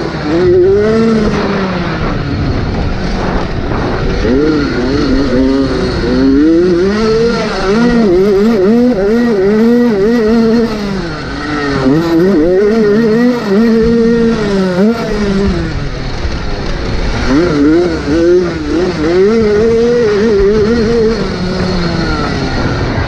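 Motocross motorcycle engines racing, revving hard and easing off over and over so the pitch climbs and drops every second or so.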